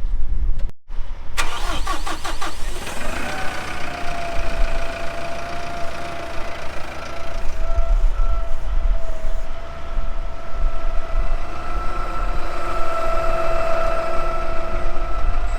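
An engine cranks with a rapid clatter about a second and a half in, catches with a short rise in pitch, then runs steadily with a held whine over a low rumble.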